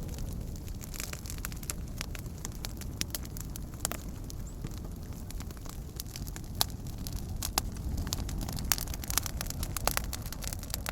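Fire crackling, with frequent sharp pops of varying loudness over a steady low rumble.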